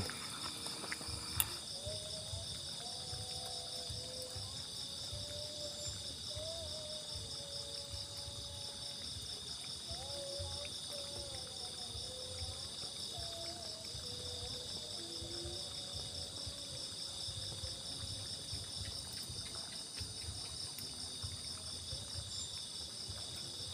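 Night insect chorus, a steady layered high buzzing and trilling, with faint wavering lower tones coming and going in the middle.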